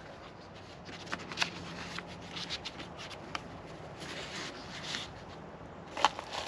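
Hands handling packaging: rustling with scattered sharp clicks, the sharpest about a second and a half in and near the end.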